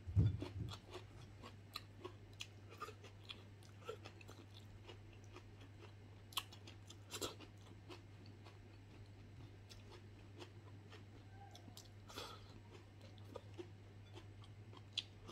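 Close-miked chewing of food with small crunches and wet mouth clicks, with a low thump right at the start. A steady low electrical hum runs underneath.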